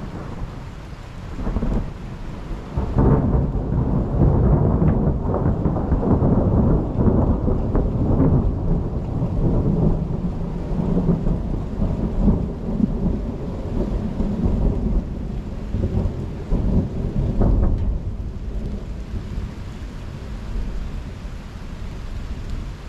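A long roll of thunder that swells about three seconds in, rumbles on with rising and falling peaks for some fifteen seconds, then dies away, over steady rain.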